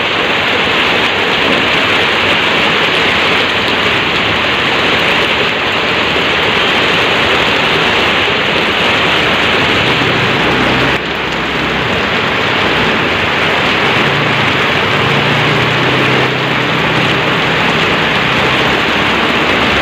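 Heavy rain pouring steadily. A low hum joins in for a few seconds near the end.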